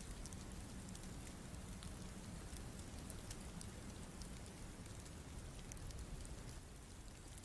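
Faint, steady hiss of wet snow falling, with scattered light ticks of flakes landing.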